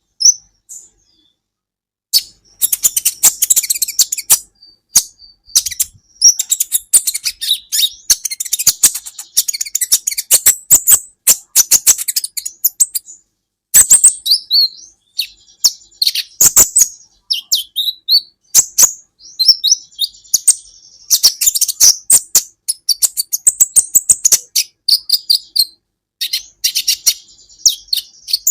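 Kolibri ninja sunbird singing a fast, high, chattering song of sharp ticks and rapid trills in long runs broken by short pauses, starting about two seconds in.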